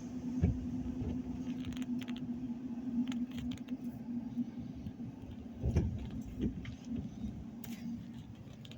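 Inside a moving car: a steady engine and road hum with scattered light rattles and clicks, and low bumps about half a second in and again around six seconds in.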